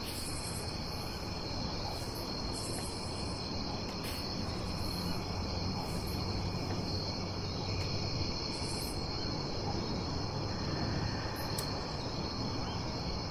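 Crickets chirping in a steady, unbroken high trill, over a low, even background rumble.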